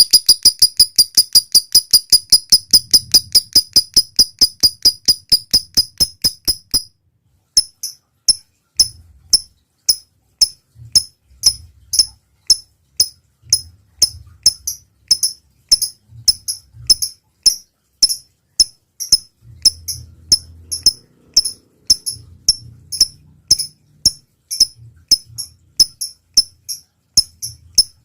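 Lovebird calling: a fast run of sharp, high chirps, about eight to ten a second, that stops about seven seconds in. After a short pause come slower single ticking chirps, about three a second.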